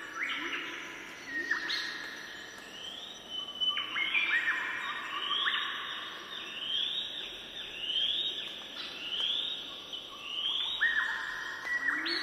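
Birds singing: a run of short, clear, repeated notes, one or two a second, overlapping one another.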